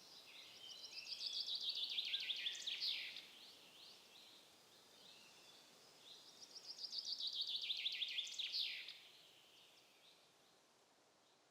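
A small songbird singing twice, each song a fast run of notes that falls in pitch and ends in a short flourish, about six seconds apart.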